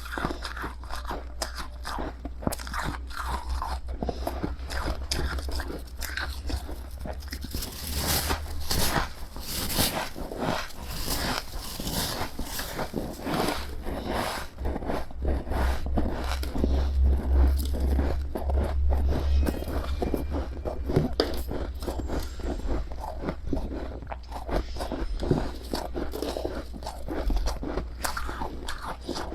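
Close-up crunching and chewing of powdery freezer frost (snow ice), with bite after bite in quick succession.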